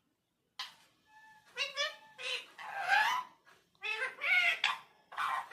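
Pet Alexandrine parakeet making a run of short, high-pitched, speech-like mimicked calls, starting about half a second in.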